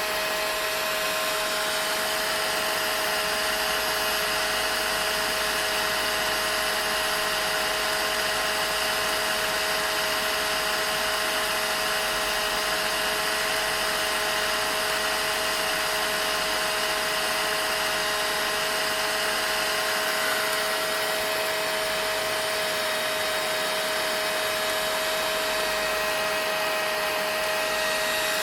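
Vacuum cleaner running steadily: a constant hiss of rushing air with a fixed motor whine.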